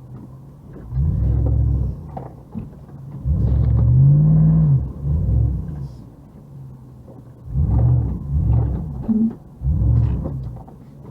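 Car running in snow: low rumbling that swells in repeated bursts, with the engine revving up and back down once about four seconds in.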